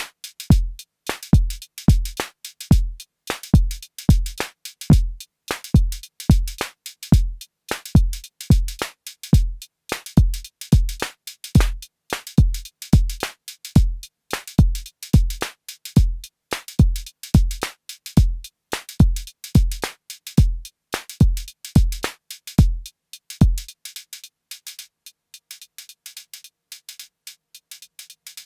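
Arturia DrumBrute Impact analog drum machine playing a beat: a deep kick about twice a second under fast high ticking hits. The kick drops out near the end, leaving only the high ticks.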